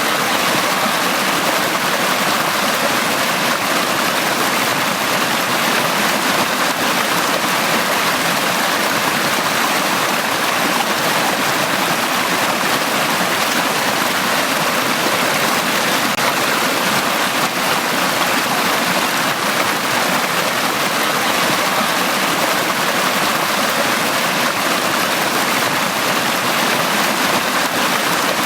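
Valley stream flowing, a steady, unbroken rush of water.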